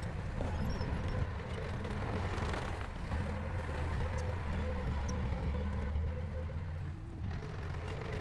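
Heavy diesel engine of earthmoving equipment running steadily, a low rumble with a faint steady hum above it.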